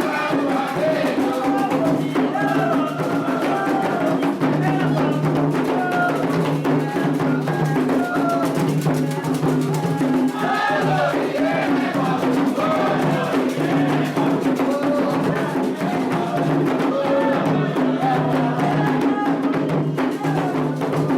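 Candomblé toque played on atabaque hand drums, with a steady, dense drum rhythm and a bright struck percussion part, as a group of voices sings over it.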